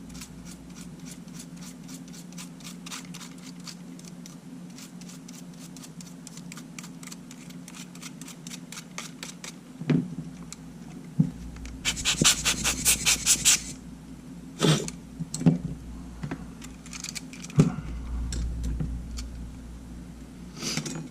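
Toothbrush scrubbing sand and grit out of an opened camera body in quick, even strokes, about four a second, then a louder, faster burst of scrubbing about twelve seconds in. Several light knocks and taps of the camera and small parts on the bench.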